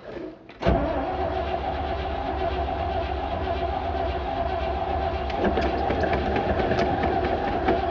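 Starter cranking the 1968 Chevrolet C-60's 327 V8 over steadily from about a second in, the engine turning but not catching. The owner thinks the carburetor loses its prime.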